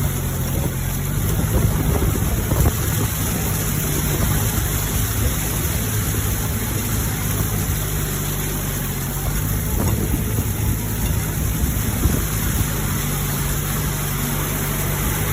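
Mahindra tractor's diesel engine running steadily while driving a rotary tiller, a low even hum under a dense rushing noise, with a few louder knocks near the start and again about two-thirds of the way through.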